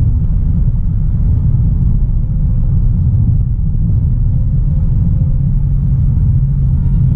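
Inside the cabin of a 2016 Audi A3 Sportback 1.4 TFSI on the move: a steady low rumble of road and engine noise. A steady engine hum comes in about five and a half seconds in.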